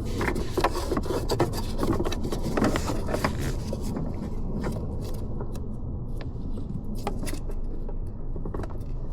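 Plastic dash trim and the instrument cluster being handled, rubbing and scraping with scattered clicks as the cluster is worked loose, over a steady low rumble. The handling is busiest in the first few seconds and thins out after.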